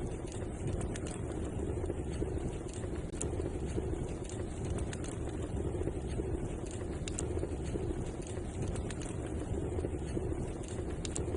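Wood fire burning in a fireplace: a steady low rumble of flames with sparse, sharp crackles and pops.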